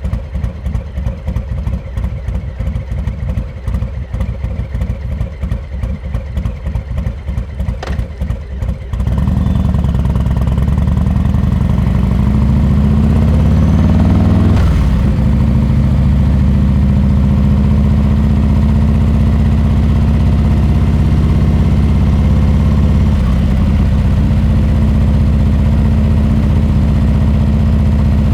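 Harley-Davidson Milwaukee-Eight 114 V-twin through a Rinehart exhaust, idling with an uneven, pulsing lope for about nine seconds. It then opens up and pulls away, running loud under load with the revs rising and falling through the rest of the stretch.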